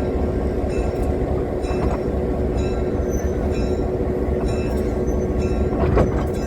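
Steady rumble and clatter of a railroad passenger car rolling along the track, with faint regular clicks about once a second. A short falling squeal near the end, typical of wheels on the rail.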